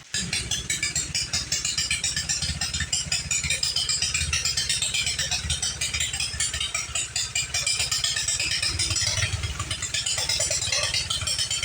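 Engine of a Jacobsen mower converted into a mud tractor, catching abruptly and then running steadily with a fast, even rattling beat.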